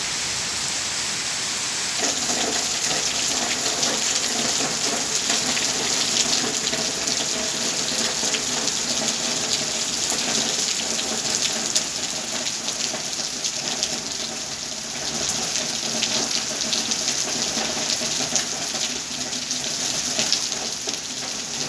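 Heavy rain pouring down: a steady, dense hiss of falling drops and splashing water, louder from about two seconds in.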